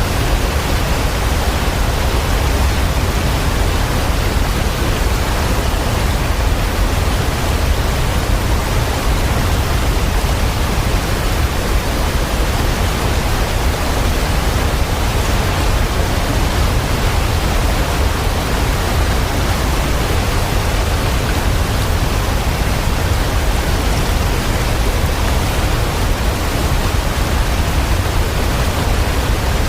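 Steady, even rushing of falling water, heaviest in the low end, with no separate drops, splashes or other events.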